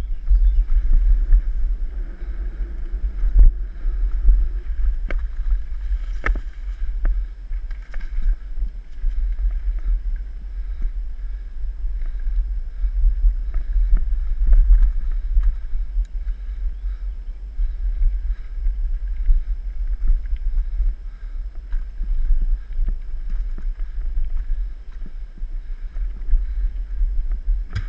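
Steady wind rumble buffeting the microphone of a camera riding on a mountain bike, with scattered clicks and knocks from the bike rattling over the trail.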